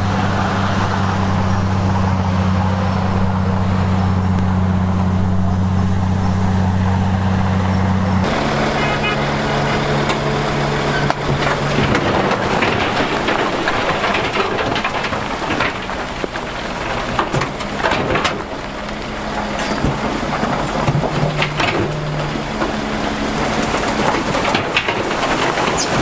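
Heavy construction machine's diesel engine running steadily for about eight seconds. It then gives way abruptly to a rougher, noisier rumble with frequent crackles and knocks.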